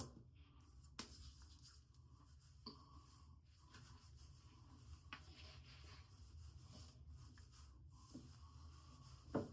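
Near silence: faint rustling and a few soft clicks or knocks over a steady low hum of room tone, with one slightly louder knock just before the end.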